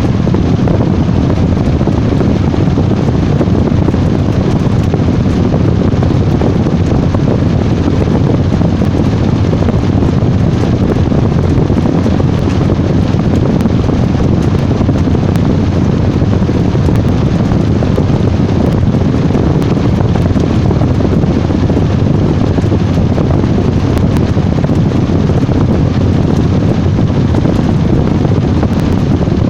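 Washing machine running, a loud steady noise with no breaks and no change in level.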